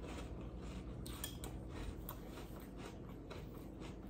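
Faint crunching as a mouthful of Cap'n Crunch Halloween Crunch cereal in milk is chewed, a quick run of small crunches that thins out toward the end.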